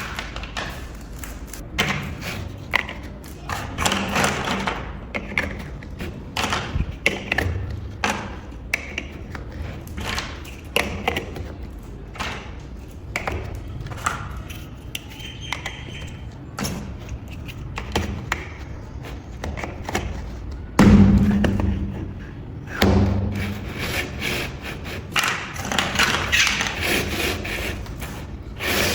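Plastic building bricks clicking and tapping as they are handled and pressed together, in irregular quick taps, with one louder thump about two-thirds of the way through.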